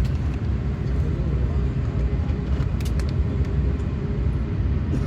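Steady low rumble inside the cabin of an Airbus A380 with Rolls-Royce Trent 900 engines running, with a faint steady hum and a few light clicks.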